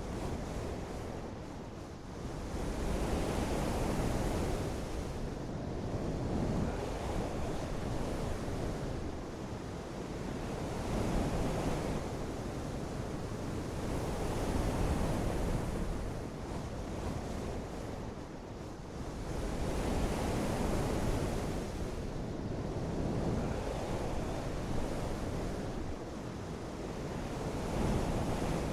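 Continuous rushing noise that swells and eases every three to five seconds.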